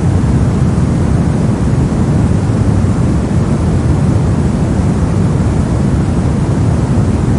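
Steady synthetic soft noise, a constant hiss weighted toward the low end so that it sounds deep and rumbling rather than bright, with no changes or events.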